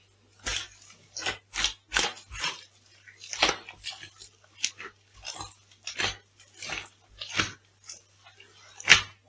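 Food being crushed underfoot: a quick series of crisp crunches, about two a second, with the loudest near the end.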